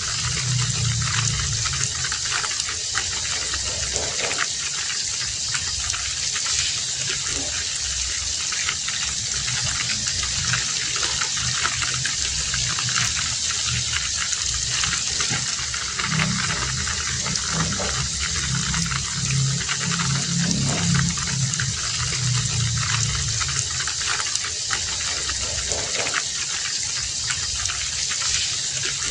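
Heavy rain falling steadily: a dense, even hiss speckled with countless individual drop impacts, with a low rumble underneath that swells and fades.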